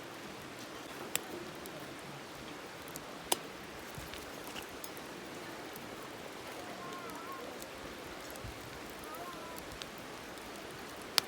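Steady rushing noise like a flowing stream, broken by a few sharp clicks or pops, the loudest near the end, with faint short chirps in the middle.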